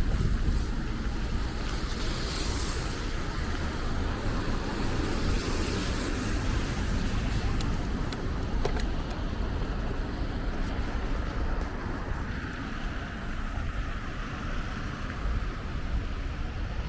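Steady city road traffic noise: cars driving past.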